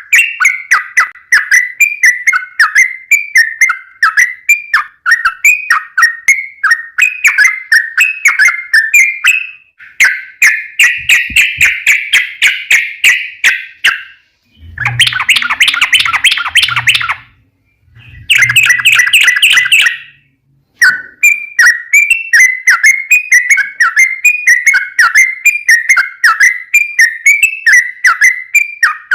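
Yellow-vented bulbul (trucukan) singing a long, fast run of chirping notes, several a second. About halfway through, the song breaks off for a moment and gives way to a few seconds of denser, louder chatter with short pauses between. Then the rapid chirping resumes.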